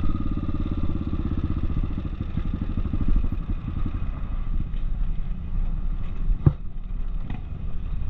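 Motorcycle engine easing off, its beat slowing over the first few seconds to a low, uneven idle. A sharp knock comes near the end.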